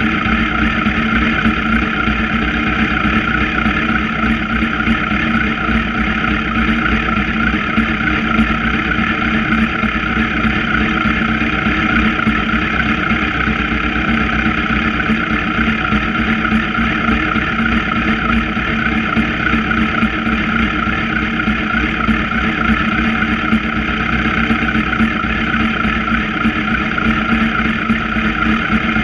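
Sport motorcycle engines idling steadily, with no revving.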